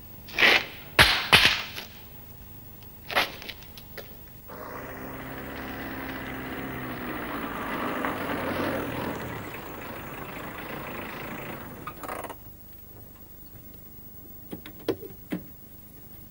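A few sharp knocks, then a car engine running for about eight seconds and cutting off abruptly, followed by a few light clicks.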